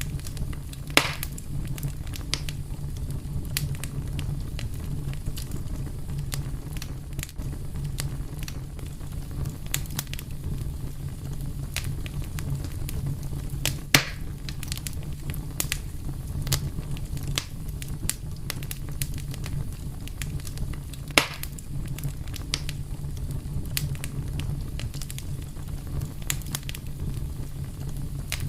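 Fire crackling steadily over a low, even rumble, with frequent small snaps and three louder pops: about a second in, around the middle, and about three quarters of the way through.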